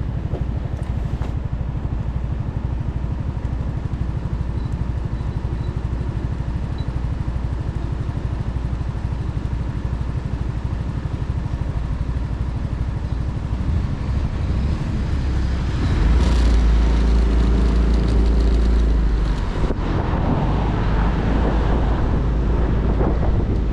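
Motorcycle engine and road noise heard from the bike while riding, with a steady low engine note. About 14 seconds in the sound builds and grows louder, with a heavy low rumble from about 16 seconds.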